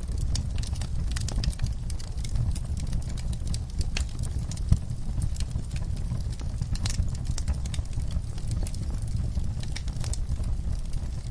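Logs burning in a fireplace, crackling: a steady stream of sharp pops and snaps over a low rumble of the fire, with one louder pop just under five seconds in.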